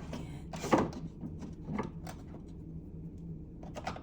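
Knocks and clicks of craft supplies being picked up and set down on a work table: one solid knock about a second in, a lighter one later, and a few small clicks near the end, over a steady low hum.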